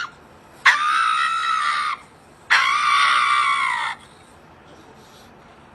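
Two long, high-pitched screams, each well over a second, with a short pause between them.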